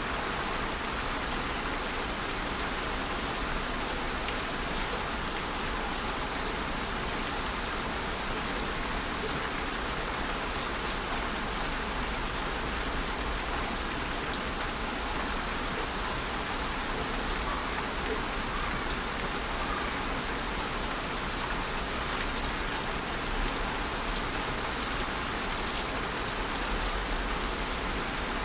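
Steady rainfall pattering on surfaces, an even hiss of drops, with a few sharper drip ticks near the end.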